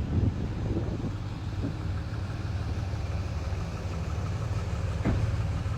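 Steady low rumble of vehicle noise, like a heavy vehicle idling, with one short knock about five seconds in.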